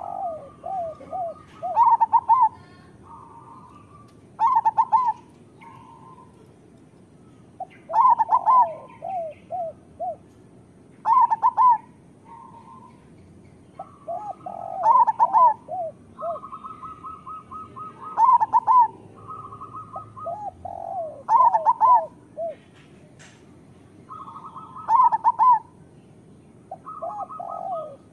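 Zebra doves (perkutut) cooing: stuttered multi-note phrases that end in a louder coo, repeating about every three seconds, with more than one bird calling.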